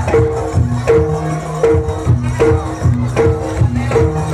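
Live kuda kepang accompaniment music: a traditional Javanese percussion ensemble plays a repeating figure of pitched notes alternating between a higher and a lower tone about twice a second, over steady drum beats and jingling percussion.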